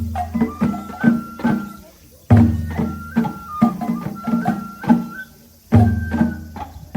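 Japanese festival music for a lion dance (matsuri-bayashi): a flute melody over rapid drum strokes, played in short repeated phrases. Each phrase opens with a deep boom, and there are brief pauses about two and five seconds in.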